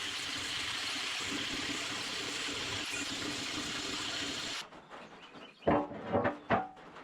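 Angle grinder grinding steel, a steady hiss with a faint low hum, stripping paint and cutting bevels on the bucket plates before welding; it stops abruptly about four and a half seconds in. Near the end come three short, loud cries.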